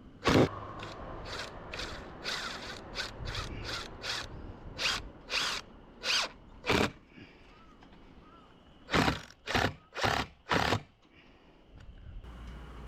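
Power drill-driver run in short trigger bursts: about a dozen quick bursts, a pause, then four more, driving screws to refasten siding.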